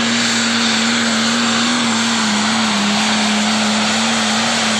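Turbocharged diesel engine of an International 3688 Pro Stock pulling tractor running flat out under load on the pull, at a steady high pitch that dips slightly about two and a half seconds in.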